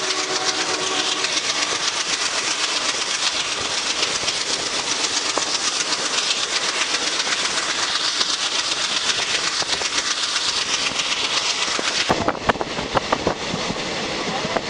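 Passenger train running at speed, heard from on board at an open coach door: a steady rush of wheel and rail noise with rapid clickety-clack. About twelve seconds in the sound changes abruptly, with a few sharp clicks and then a lighter rush.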